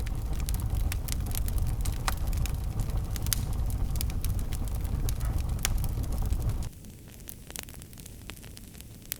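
Wood fire crackling with frequent sharp pops, over a low rumble that cuts off abruptly about two-thirds of the way through, leaving the crackles over a fainter hiss.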